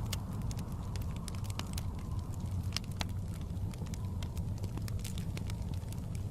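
Wood fire crackling with frequent irregular small pops over a steady low rumble of blizzard wind.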